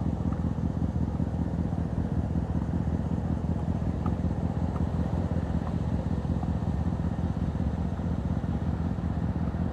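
Motorcycle riding along at a steady pace: a continuous low rumble of the bike and wind, with no changes in speed.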